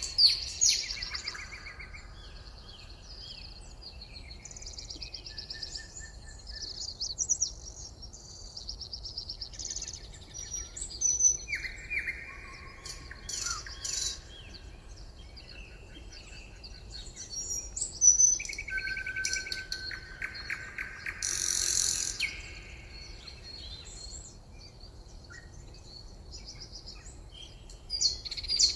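Several songbirds singing and calling at once: overlapping trills, rapid chirps and short whistled phrases, some of them loud and close.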